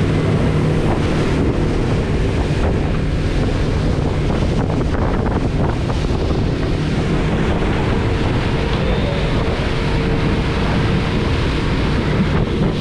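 Wind buffeting the microphone on a fishing boat at sea, with a steady engine hum underneath; the sound cuts off abruptly at the end.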